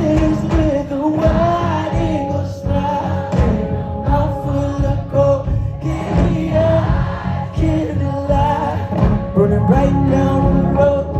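Live band music with sung vocals over bass and drums, loud concert sound.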